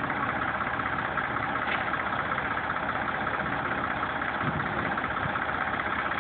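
Tractor engine running steadily with an even, rapid pulse.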